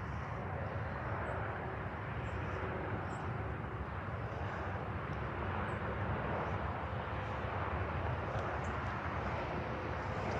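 Steady jet aircraft engine noise at an airport, holding at an even level without rising or falling, with faint steady tones under the roar.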